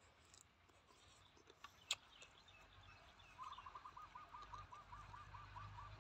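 Faint bird call in the background: a quick series of short, even notes, about five a second, starting a little over three seconds in. There is a single sharp click just before the two-second mark.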